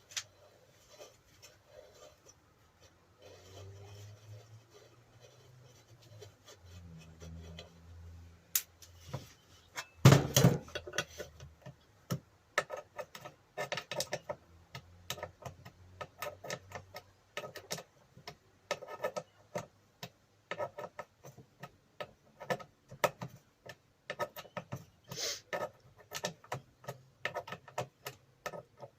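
Hand tools working on a bench grinder's wheel nut: a loud metallic clank about ten seconds in, then a long run of quick, irregular metal clicks and ticks.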